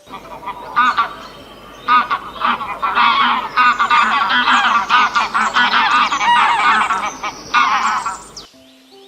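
A flock of birds calling at once, many overlapping harsh calls for about eight seconds, cutting off abruptly near the end.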